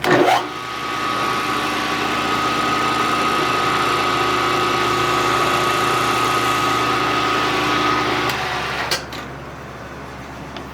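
Machine-tool spindle in a home machine shop starting up, running at a steady speed with a whine, then shutting down near the end, likely while drilling or boring a small part. There is a sharp knock just before it starts and a click shortly after it stops.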